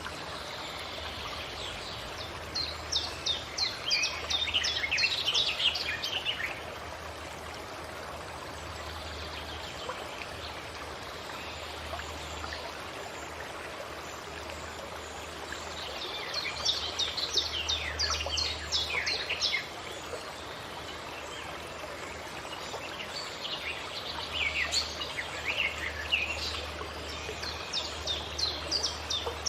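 Forest ambience: a bird sings three bouts of rapid, high, falling notes, each a few seconds long, starting about 3, 16 and 24 seconds in, over a steady rush like a flowing stream.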